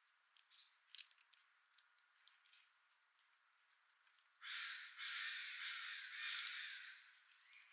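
A few light ticks, then a harsh, raspy bird call starting about halfway in and lasting about two and a half seconds.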